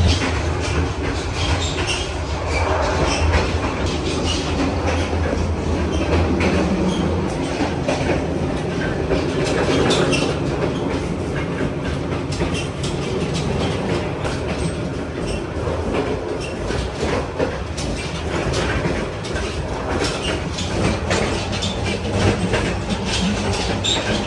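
Sleeper train running along the track: a steady rumble with the clickety-clack of its wheels over the rails.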